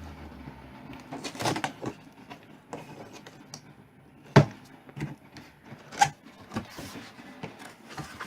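A cardboard box being opened and its contents handled: rustling and scraping with scattered clicks, and two sharp knocks, about four and six seconds in.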